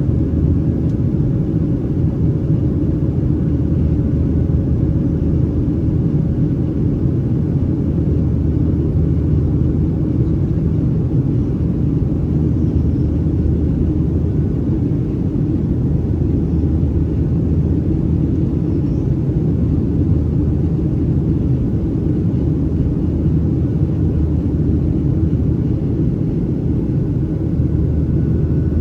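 Steady cabin noise inside a Boeing 737-800 with its CFM56 engines running: an even low rumble of engines and airflow, with a faint steady hum over it.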